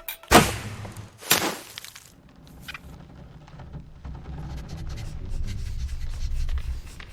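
Cartoon sound effects: two loud sudden hits about a second apart, then a low rumble that slowly builds.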